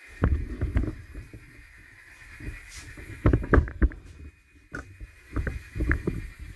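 N-gauge model trains running on the layout: an irregular low rumble with sharp clicks and knocks from the wheels on the track, over a faint steady motor whine.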